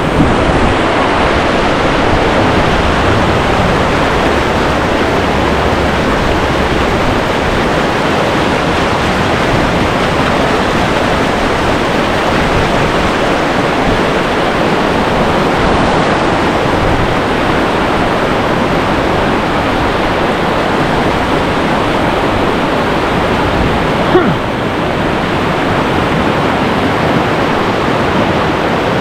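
Whitewater of a river rapid rushing steadily and loudly, with one brief knock late on.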